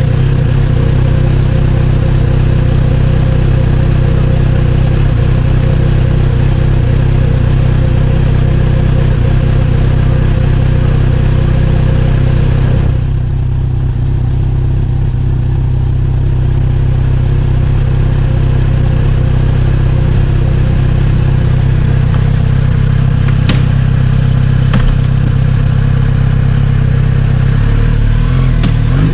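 Kawasaki Z900RS inline-four engine running at a steady, unchanging speed.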